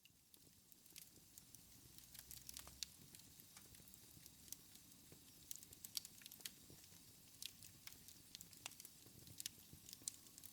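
Wood fire in a fireplace crackling: many small, sharp pops and snaps, irregular, over a faint low hiss of the flames.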